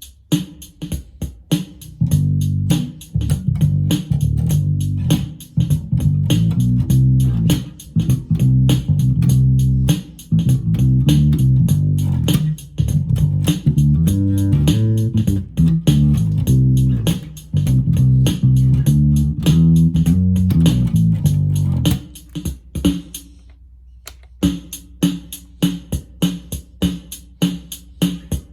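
Electric bass guitar played through a Roland Micro Cube Bass RX amp, an improvised bassline over the amp's built-in rhythm-box drum pattern with its steady ticking beat. About 22 seconds in the bass stops for a couple of seconds while the beat carries on, then picks up again.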